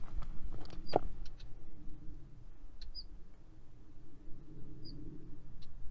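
Outdoor ambience with a bird giving a single short, high chirp about every two seconds over a low rumble of wind on the microphone, with a sharp click about a second in.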